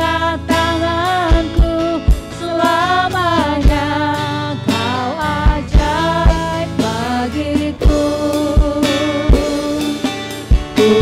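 Worship song with a band: a sung melody with slides and vibrato over a drum kit, with regular kick-drum beats.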